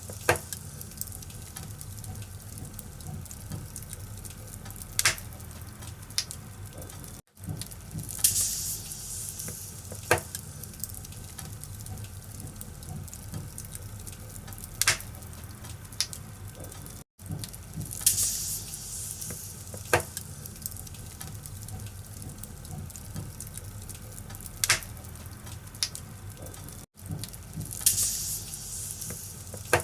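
Wood fire crackling in a fireplace: a steady low hiss and rumble with a sharp pop every five seconds or so and brief flares of higher hissing. The sound cuts out for an instant three times.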